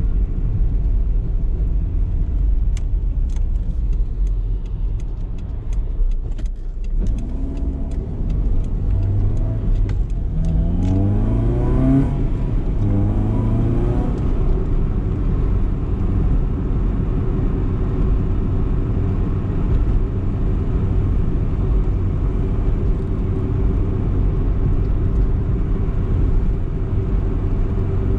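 BMW E30 318is's four-cylinder engine under way: about seven seconds in the note drops away, then it climbs in pitch in a few quick steps as the car accelerates through the gears, and settles into a steady drone.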